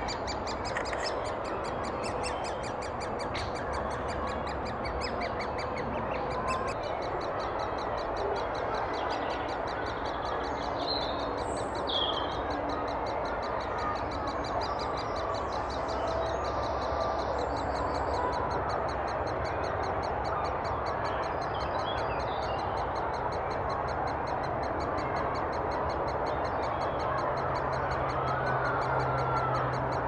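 Steady outdoor background noise with bird calls mixed in, including a few short high chirps about eleven to twelve seconds in.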